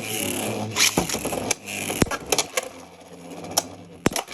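Beyblade X spinning tops whirring in a plastic stadium and clashing, with sharp plastic clacks at each hit, the busiest in the first two seconds; the spinning tapers off toward the end.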